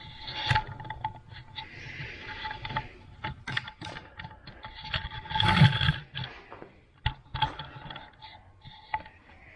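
Scattered knocks, clicks and scrapes of a metal cabinet and its parts being handled and shifted, with one louder clatter about halfway through.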